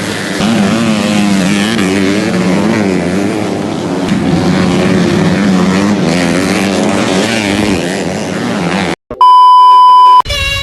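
Motocross dirt bike engines running hard, their pitch repeatedly rising and falling with throttle. Near the end the engine sound cuts off and a loud steady electronic beep sounds for about a second, then music starts.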